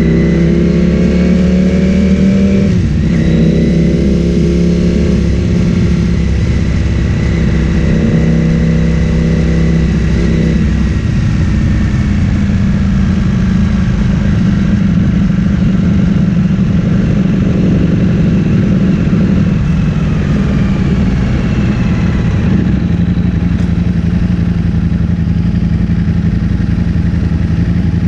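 Ducati Streetfighter V4 S's V4 engine through an Akrapovic full-system exhaust, heard while riding. It pulls with rising pitch, drops abruptly about three seconds in at a gear change, and climbs again before settling to a steadier drone for the rest of the run.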